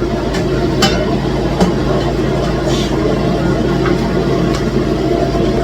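A pot of vegetable stew boiling hard over the heat, a steady low rumble with bubbling and a few sharp pops, as its water cooks off.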